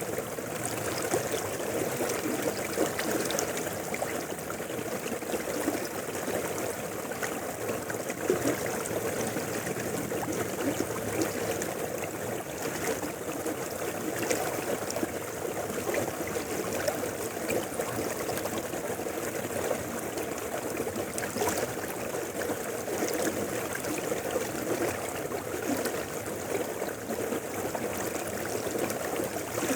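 A mountain river flowing steadily over rocks, a continuous rushing with many small splashes and gurgles.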